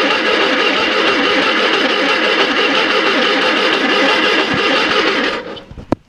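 Electric starter cranking the engine with a fast, even pulsing, without the engine catching: a no-start. The cranking stops about five and a half seconds in, followed by a sharp click.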